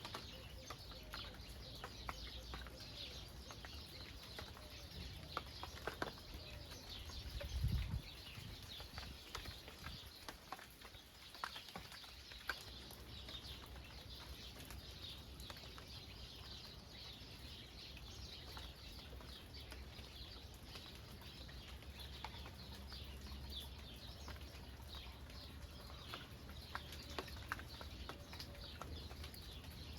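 Faint steady rain with small birds chirping throughout. About eight seconds in there is a brief low thump, the loudest moment.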